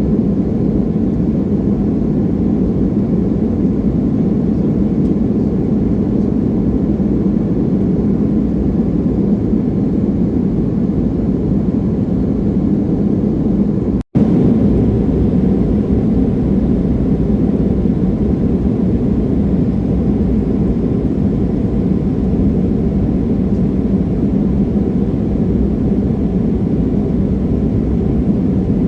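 Steady drone of an Embraer E175 regional jet's engines and airflow, heard inside the passenger cabin, deep and even. It cuts out for an instant about halfway through.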